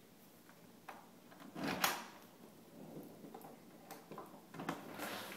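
A door being handled and opened: a few sharp latch clicks and knocks, the loudest a fuller knock just under two seconds in.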